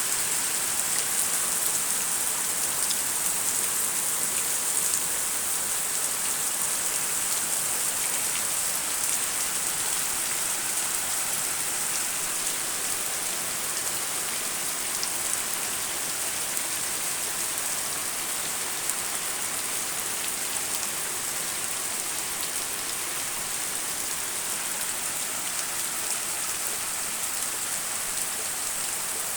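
Steady heavy rain falling, an even hiss of drops with scattered faint ticks.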